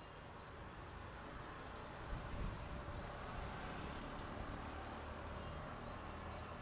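An approaching train's low rumble grows steadily louder, with a brief louder thump about two seconds in. Faint, evenly repeated high chirps sound above it.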